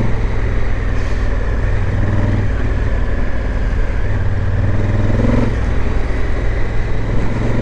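Honda Africa Twin parallel-twin motorcycle engine running under way on a gravel road, heard with wind rushing over the rider's helmet microphone; the engine note rises briefly about five seconds in as the throttle opens.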